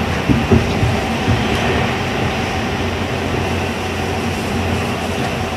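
Tokyu 1000 series electric train car running at speed, heard from inside: a steady rumble of steel wheels on the rails, with a few short knocks near the start.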